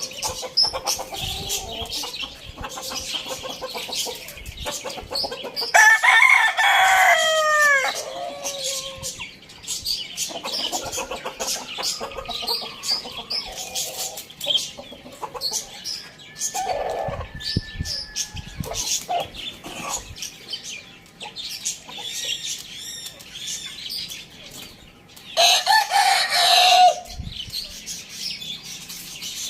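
A rooster crowing loudly twice, about six seconds in and again near the end, over steady clucking from chickens and bird chirps.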